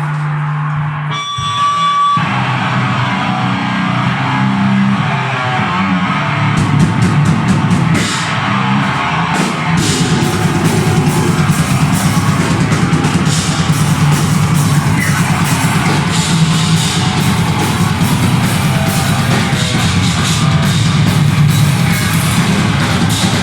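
Deathgrind band playing live: heavily distorted guitars and bass with a drum kit. A held low chord stops about a second in, and the full band comes in about two seconds in. Dense cymbal hits run from about six seconds.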